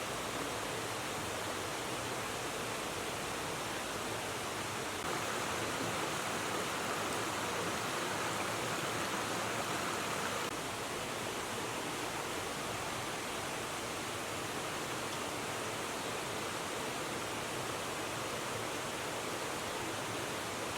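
River water rushing steadily, a little louder for a few seconds in the middle.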